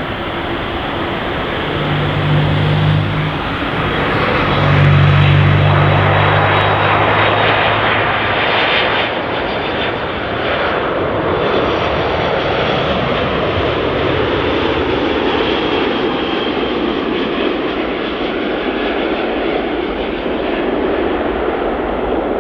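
Jet airliner engines running loud as the aircraft passes the runway-side spotting spot, the roar swelling to a peak about five seconds in and then staying strong as it eases off slightly.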